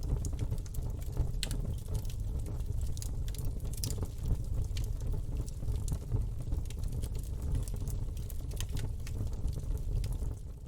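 Campfire burning: a steady low rumble of the flames with irregular sharp crackles and pops from the burning wood.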